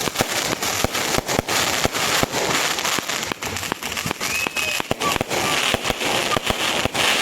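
Fireworks going off: many rapid, irregular bangs and crackling pops over a steady hiss.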